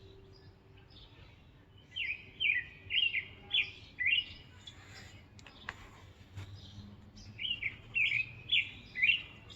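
A bird chirping: two runs of about five quick, sharply down-slurring notes, the first about two seconds in and the second near the end.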